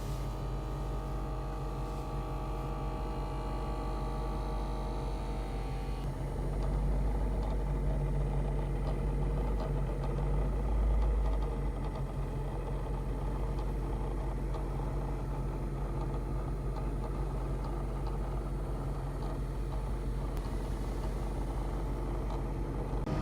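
Steady hum inside a 2012 Mustang GT's cabin with the car running, carrying a fan-like whir and rattle that turned out to come from the interior ambient temperature sensor's small fan. A set of steady tones drops out about six seconds in.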